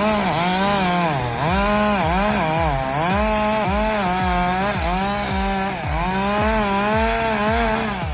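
Two-stroke chainsaw running at high revs while cutting wood. Its engine pitch dips briefly and recovers again and again as the chain bites in.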